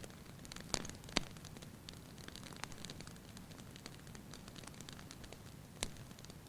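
Fire in a fireplace crackling: a steady low rumble of flames with scattered small pops, and a few sharper snaps about a second in and again near the end.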